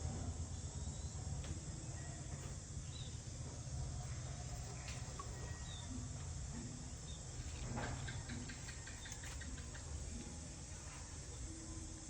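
Outdoor ambience: a steady high hiss like insects calling over a low rumble, with a few faint clicks and short chirps.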